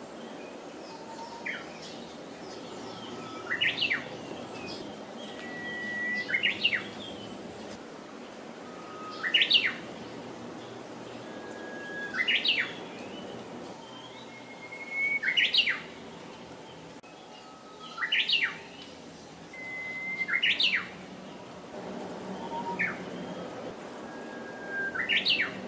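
Japanese bush warbler (uguisu) singing its 'hoo-hokekyo' song over and over, about every three seconds: a long steady whistled note followed by a quick rising and falling flourish.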